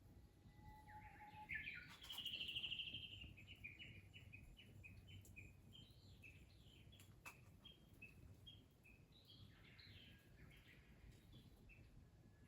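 A songbird singing faintly: a short bright trill about two seconds in, then a long run of quick, separate notes, over a faint low background hum.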